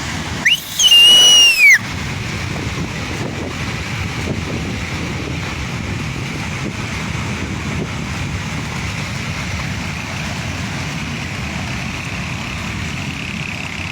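Floodwater rushing steadily. About half a second in, a loud high whistle-like tone rises and then falls over about a second.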